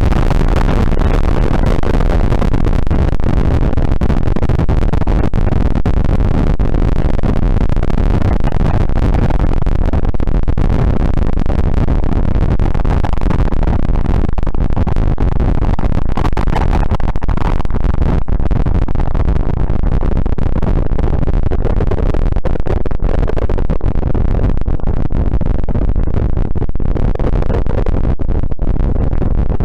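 Experimental noise music: a loud, steady wall of rumbling noise, heaviest in the bass, with no melody or beat.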